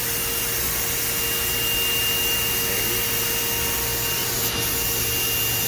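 Vertical machining center running: a steady hiss with a low hum underneath and a faint high whine held at one pitch.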